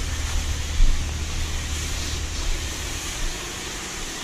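Self-serve car wash wand spraying spot-free rinse water over a car, a steady hiss, with a low rumble underneath that drops away about three seconds in.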